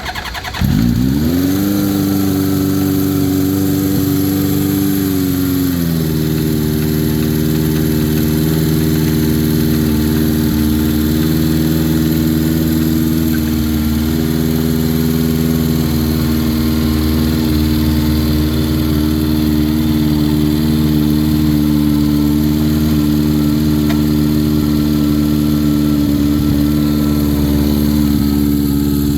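Honda CB750's inline-four engine cold-started on choke: it catches within about a second and climbs to a high fast idle. About six seconds in it settles slightly lower, then runs steadily at a fast choke idle of about 2,200 RPM with no throttle, which sounds a little high.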